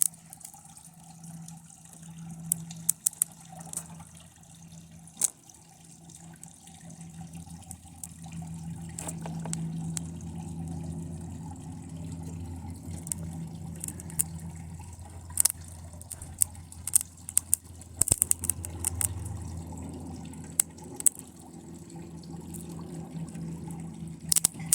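Electrical arcing from lead-acid battery leads shorted across a TV circuit board: irregular sharp crackles and pops over a sizzling, frying sound, with a low steady hum underneath. It grows louder about nine seconds in.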